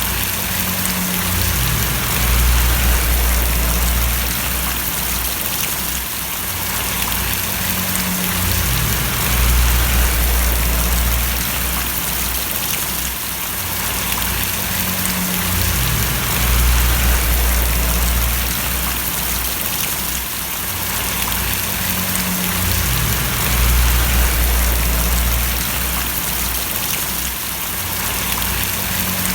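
Steady heavy rain splashing, with a deep low rumble that swells and fades about every seven seconds.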